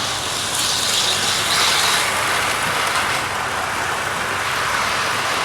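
Model railway trains running on the layout: the steady whirr of their small electric motors and wheels on the track.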